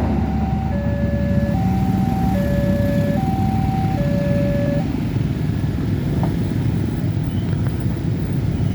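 Railway level-crossing warning alarm sounding an electronic two-tone signal, the two pitches alternating a little under once a second, cutting off about five seconds in, over a steady low rumble of road traffic.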